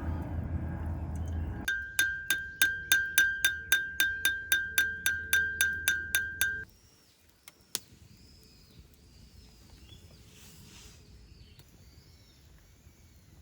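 A high ringing tone struck or beeped about three times a second, each pulse fading quickly, for about five seconds, then it stops abruptly. A low rumble comes before it, and faint bird chirps follow after a single click.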